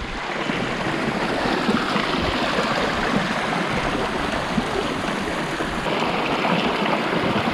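A small mountain stream flowing: a steady, even rush of running water.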